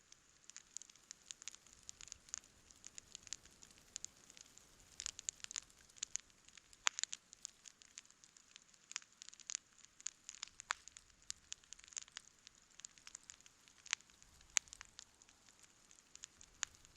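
Wood campfire crackling: irregular sharp pops and snaps, several a second, over a faint hiss, with a few louder pops.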